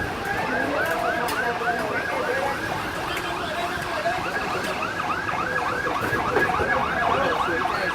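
Emergency vehicle siren in a fast yelp, sweeping up and down about three to four times a second, with a lower, slower wavering tone underneath at times.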